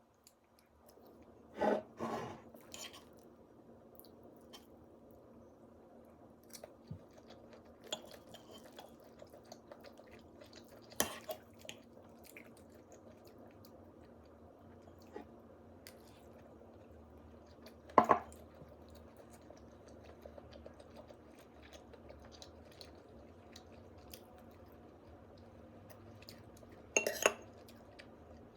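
Tableware clinking and clattering as utensils knock against dishes, with a handful of sharp knocks spread out (the loudest about 18 seconds in, a quick double near the end) over a steady low background hum.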